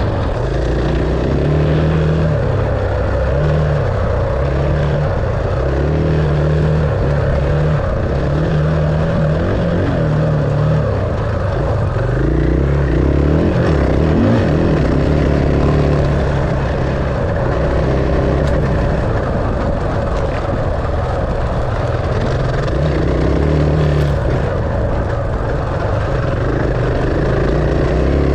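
Enduro dirt bike engine running under changing throttle, its pitch stepping up and down again and again, over a steady rushing noise.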